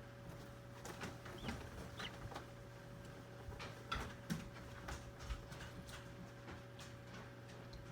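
Steady hum of an egg incubator, with irregular light clicks and taps and a few short, faint peeps from hatching turkey poults.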